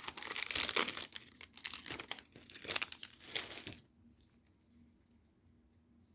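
Foil wrapper of a Magic: The Gathering Kamigawa: Neon Dynasty draft booster being torn open and crinkled by hand, a quick run of crackles and tears that stops about four seconds in.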